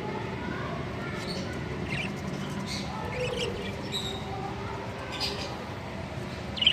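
A colony of budgerigars chirping and chattering: short, high chirps scattered throughout, with one louder chirp near the end. A steady low hum runs underneath.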